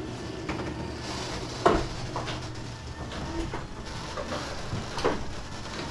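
Garage door running with a low steady hum that stops about two seconds in with a sharp clunk, followed by a few lighter metallic knocks.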